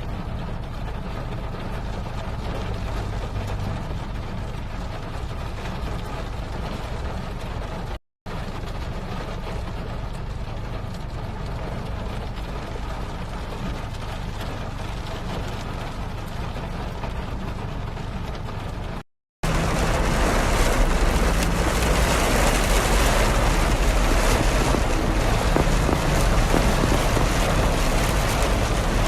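Steady rumble and road noise of a moving car, heard from inside, in three cut-together stretches. The last stretch is louder, with more hiss.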